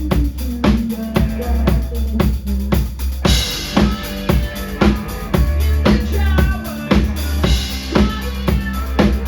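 Live rock band playing, with a driving drum kit on a steady beat over heavy bass. From about three seconds in, crashing cymbals and brighter guitar come in.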